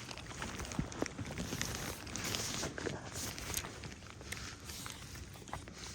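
Rain pattering with irregular sharp ticks of drops over a steady hiss of wind and rain.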